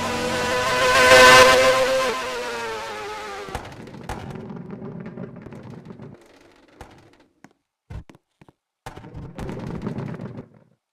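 A car driving past at speed: its engine note is loudest about a second in, then drops in pitch and fades as it moves away. A few knocks and a short rush of noise follow near the end.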